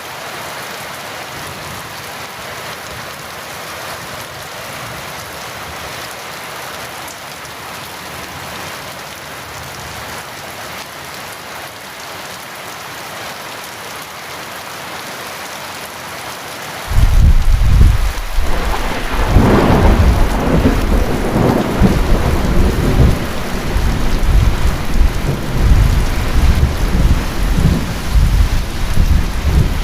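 Heavy rain falling steadily, then about two-thirds of the way through a thunderclap breaks in suddenly, cracks a couple of seconds later and rolls on as a deep, loud rumble under the rain.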